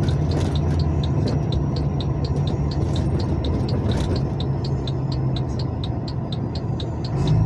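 A vehicle's engine running steadily at low speed, heard from inside the cab, with a quick faint regular ticking, about four or five ticks a second, over it.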